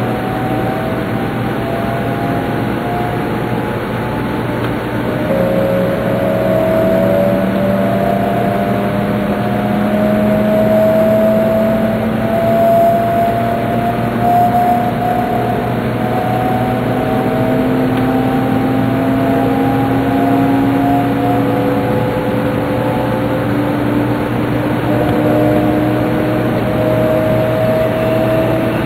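Tokaido Shinkansen train running, heard from inside the passenger car: a steady rumble of wheels on rail with a motor whine made of several tones that slowly rise in pitch as the train gathers speed.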